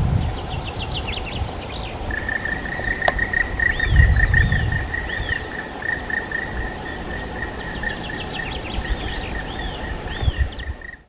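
Woodland birds calling and singing: repeated short arched notes and quick trills, over a long, even, high trill that starts about two seconds in. Two low dull rumbles come near the start and about four seconds in.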